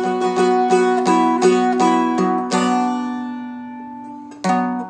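Seagull Merlin M4, a four-string dulcimer-style instrument, flatpicked slowly: single melody notes about three a second over ringing drone strings. About halfway through, one note is left to ring and fade, and a new note is picked near the end.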